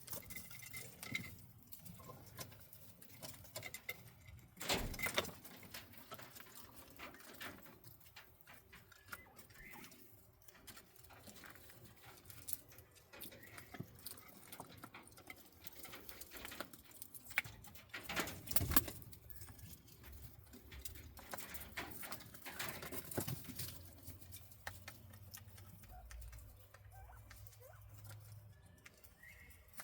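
Quail moving about in an aviary: faint scratching, pecking and pattering on the floor litter, with soft chirps and a few louder brief rustles.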